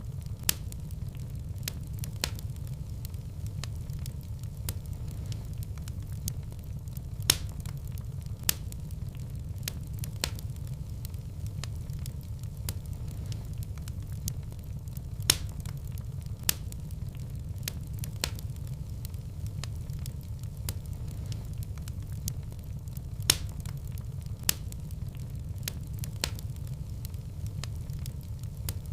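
Wood fire burning in a fireplace: a steady low rumble of flames with continual light crackling and a few sharp, louder pops every several seconds.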